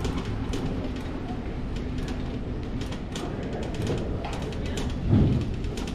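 Steady low rumble of wind on the microphone while riding a bicycle, with scattered light clicks and a thump about five seconds in.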